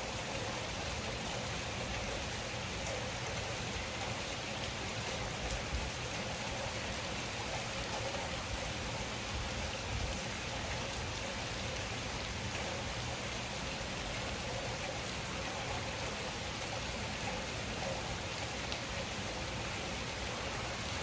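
Heavy rain falling steadily, with a few small drop impacts.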